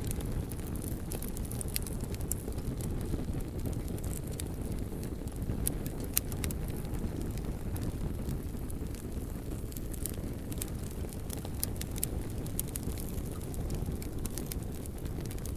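Wood fire burning: a steady low rumble of the flames with scattered sharp crackles and pops, a cluster of them about six seconds in and more around ten to thirteen seconds in.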